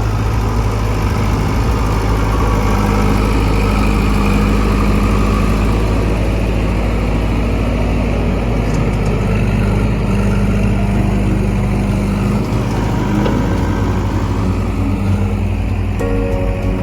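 JCB backhoe loader's diesel engine running steadily while digging.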